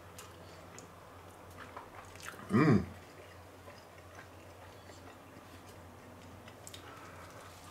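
A person chewing a mouthful of burger, with faint small wet chewing clicks. About two and a half seconds in there is one short, loud hum from the eater's voice that bends in pitch.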